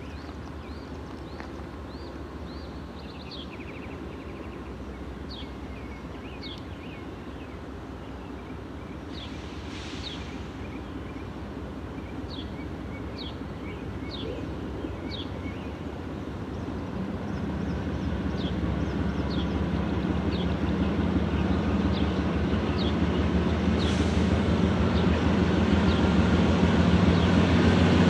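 Diesel freight locomotives approaching, their engine sound growing steadily louder, with a deep steady drone coming up in the second half.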